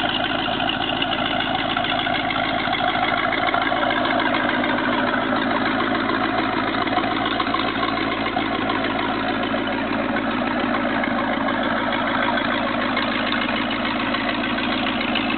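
Baja Force 220 boat's 350 Magnum V8 engine idling steadily, on its first run after sitting for about three years.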